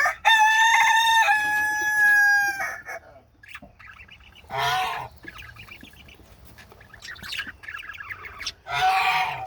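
Birds calling: one long, steady, drawn-out crow-like call, then quieter warbling budgie chatter broken twice by short loud calls.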